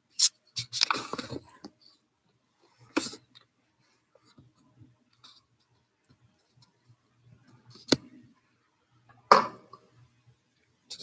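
Handling noise from a screen or recording device being turned and moved: scattered sharp clicks and knocks with short rustles in between, the loudest near the start and near the end.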